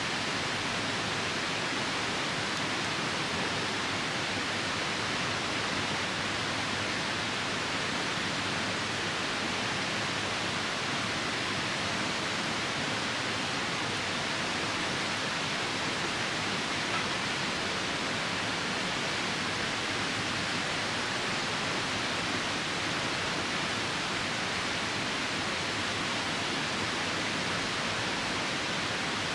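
Steady, even rush of a nearby river with rain falling, unbroken throughout.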